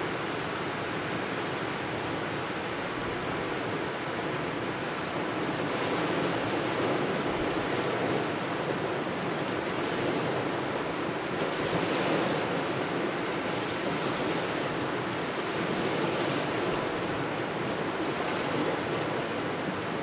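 Waves washing onto the shore with cold wind blowing, a steady rushing that swells and eases every few seconds as waves come in.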